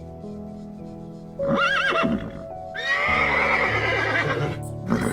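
Background music with sustained tones, and an animal calling twice over it: a short wavering call about a second and a half in, then a longer call from about three seconds in.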